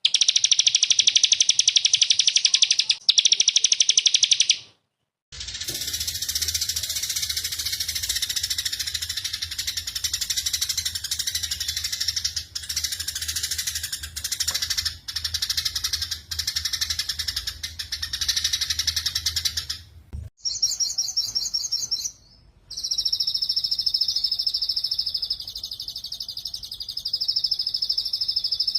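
Recorded songs of small songbirds spliced one after another: 'tembakan', the rapid-fire trills used as masteran to teach cage birds. First a very fast, buzzy high trill, then a short break and about fifteen seconds of denser song over a low hum, then a brief trill and a steadier high trill after another short gap.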